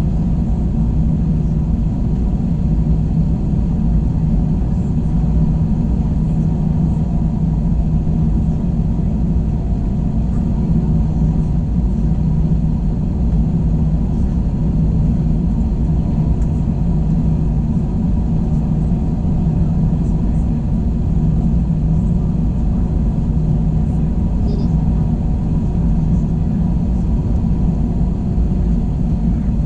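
Cabin noise of an Airbus A321 airliner in flight: a steady, even engine and airflow drone with a low hum, unchanging throughout.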